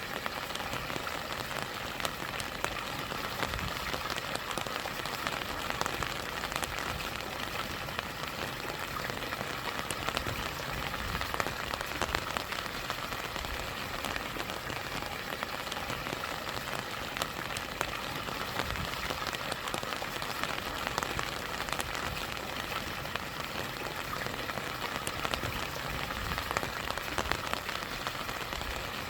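Steady rain falling on a rushing stream with a small waterfall: a constant watery hiss scattered with the sharp ticks of individual drops.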